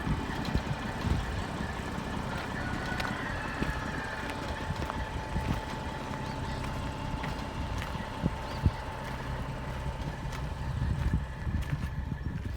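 A vehicle engine running steadily, with a faint steady whine and a few light knocks.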